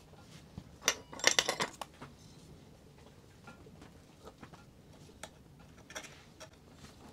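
A brief clatter of light, sharp clinks about a second in, then a couple of single clicks near six seconds.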